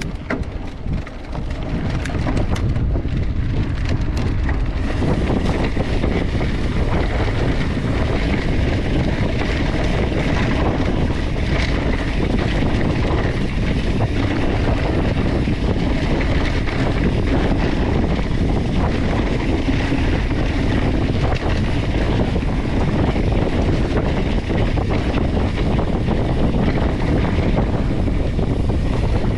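Wind buffeting the microphone of a mountain bike rider on the move, over the rumble of bike tyres rolling on a dirt truck trail. There are a few clicks and rattles in the first few seconds, and then the noise holds steady.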